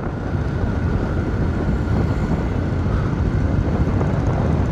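Yamaha R15 single-cylinder motorcycle under way, its engine running under a steady rush of wind on the camera microphone, growing slightly louder across the few seconds.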